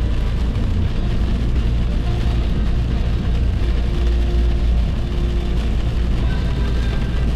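Steady road noise of a car driving at highway speed on the turnpike, mostly a deep rumble.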